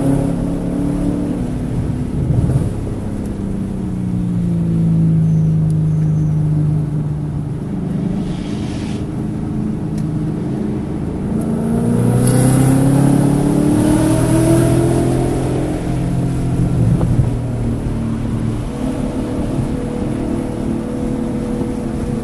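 Car engine driven hard, its revs falling over several seconds, then climbing again under acceleration about halfway through, then holding fairly steady near the end. The engine has misfires in cylinders 1, 3 and 4, which set the check engine light blinking.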